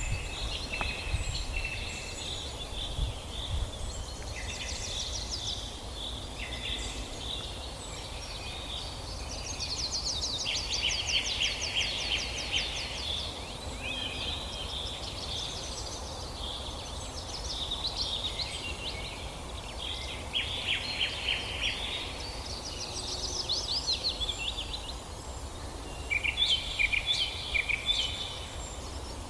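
Several songbirds singing at once in a forest chorus, overlapping rapid trills and chirps, over a steady low rumble.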